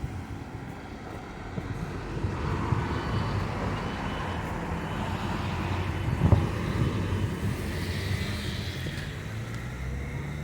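Class 158 diesel multiple unit running at the platform: a steady diesel engine note under broad mechanical and rail noise that builds after about two seconds, with a single sharp knock about six seconds in.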